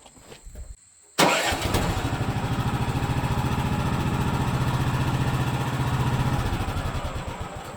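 The sawmill's small gasoline engine catches suddenly about a second in and runs steadily with a fast, even firing beat. Near the end it dies away.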